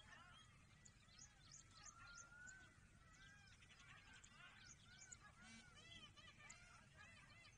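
Faint wild bird calls: short arched chirps repeated several times a second, mixed with thin high calls and a brief buzzy trill about three seconds in.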